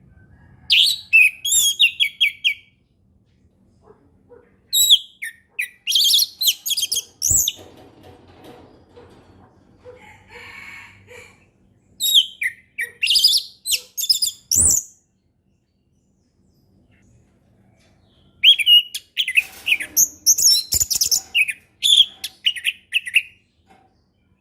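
Orange-headed thrush singing in four separate phrases of fast, varied high notes, with pauses of a few seconds between them: the loud, open 'ngeplong' song used as a lure for young birds to learn. Two sharp knocks come in the middle stretch.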